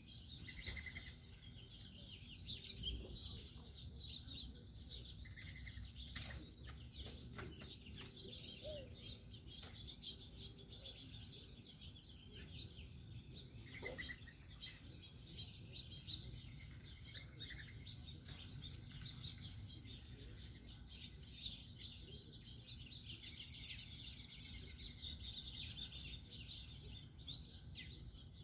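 Wild birds at garden feeders chirping and twittering: many short, high chirps scattered throughout, faint.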